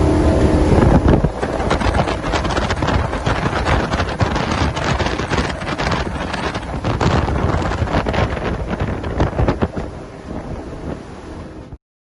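Wind buffeting the microphone over the rush of water from a Cruisers Yachts 38 GLS motor yacht running underway, with a steady engine hum in the first second. The sound fades near the end and cuts off abruptly.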